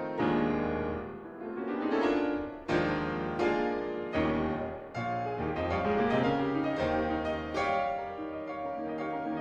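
Background piano music: struck notes and chords ringing and decaying in a steady flow.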